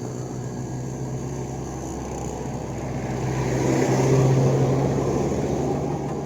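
A motor vehicle passing close by, growing louder to a peak about four seconds in and then fading, over steady background music.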